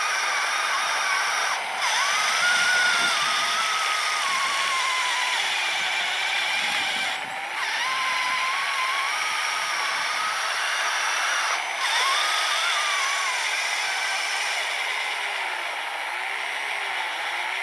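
Electric motors of a radio-controlled truck and its 3D-printed snowblower whining as the blower clears powder snow. The pitch wanders up and down with load and throttle, and the sound dips briefly three times: about two, seven and twelve seconds in.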